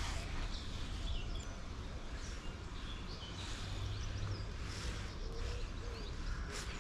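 Birds chirping briefly several times over a steady low rumble.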